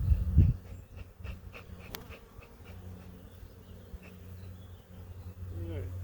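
Honeybees buzzing around an opened hive during an inspection, a steady hum. It opens with a brief loud rumble of handling, and there is a run of light clicks about a second in, one of them sharp.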